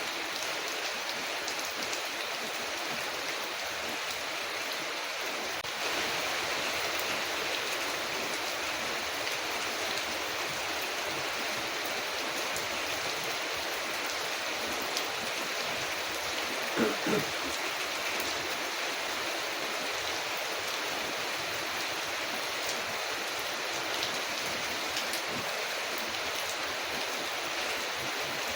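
Steady rain falling on a window, an even hiss, with faint scattered crackles of a wood fire. The rain gets a little louder about six seconds in, and a brief pitched sound stands out about seventeen seconds in.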